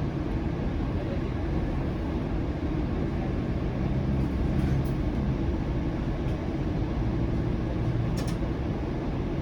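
Bombardier Flexity Outlook low-floor streetcar heard from inside while running, a steady low rumble of the car on its rails. A low hum comes up about four seconds in and fades near the end.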